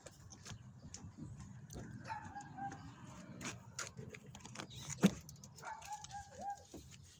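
Scattered knocks and bumps, with one loud knock about five seconds in, and two brief wavering calls around two and six seconds in.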